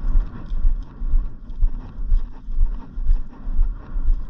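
Wind rumbling on the microphone, a low noise that swells and dips about twice a second.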